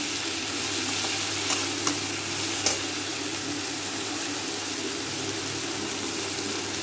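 Onions and bitter gourd peels sizzling steadily in hot oil in a metal kadhai as they are stirred with a perforated metal spoon. A few light clicks of the spoon against the pan come between about one and a half and three seconds in.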